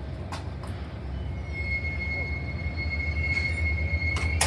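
Train below running with a low rumble that grows louder, and a steady high-pitched wheel squeal setting in about a second and a half in. A couple of sharp clicks stand out, the loudest near the end.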